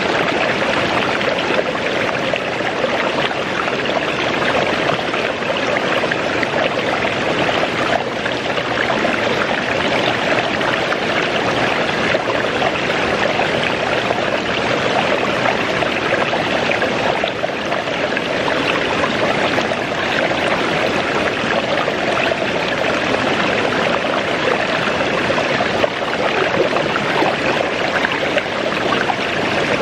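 Waterfall rushing in a steady, dense roar of falling water.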